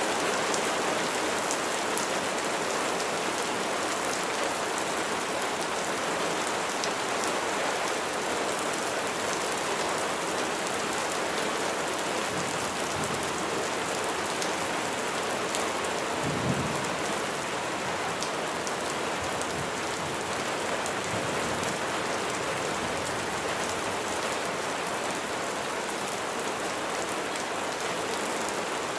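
Steady rain falling on a surface, a dense, even patter of drops. One brief low thump sounds a little past halfway through.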